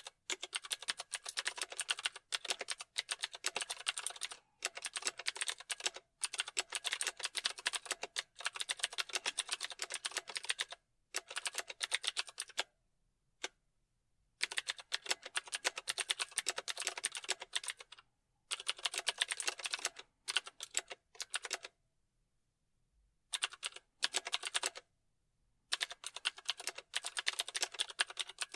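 Computer keyboard being typed on in fast runs of keystrokes, broken by short pauses. The longest pause falls a little past the middle.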